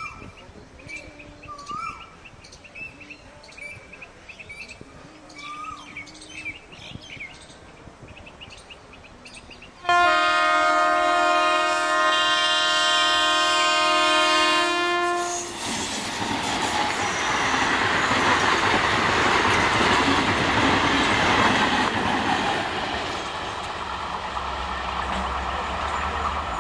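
Faint bird chirps, then about ten seconds in an Indian Railways multiple-unit commuter train sounds one long, steady horn blast of about five seconds. After it the train's running noise and wheel rumble build steadily as it approaches.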